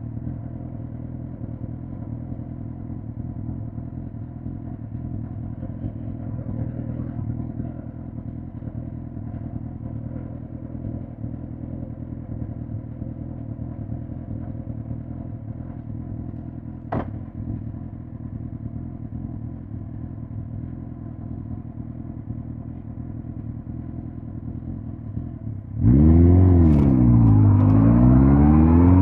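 2005 Suzuki GSX-R1000 K5's inline-four engine running steadily at low revs, with a brief click about two-thirds in. Near the end it suddenly gets much louder as the rider opens the throttle: the revs climb, dip at a gear change, then climb again under hard acceleration.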